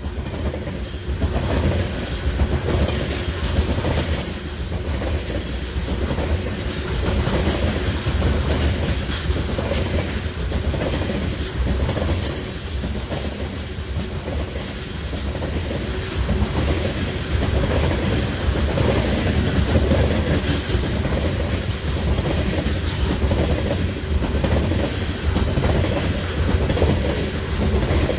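A train rolling past, loud and steady throughout, its wheels clicking in an even rhythm over the rail joints.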